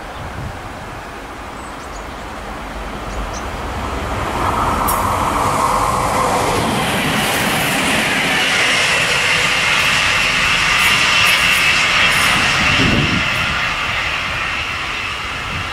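Two coupled SNCF BB 37000 electric locomotives, E 37514 and E 37515, passing close by on the rails. The noise swells about four seconds in and stays up while the train runs past, with a strong high hiss over the rumble.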